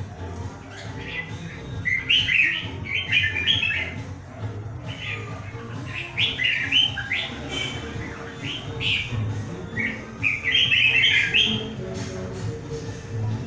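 Red-whiskered bulbuls singing in competition, answering one another in about four bursts of quick, bright phrases.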